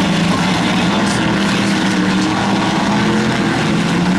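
Several race car engines running together as demo cars circle the oval, a steady loud drone with no let-up.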